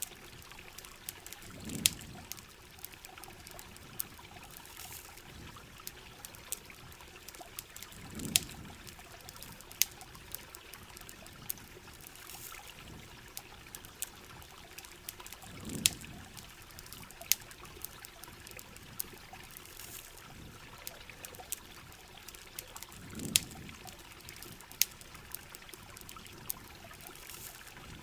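Rain and campfire ambience: a steady hiss of rain and trickling water, sprinkled with sharp crackles. A low, dull whoosh rises and fades about every seven and a half seconds.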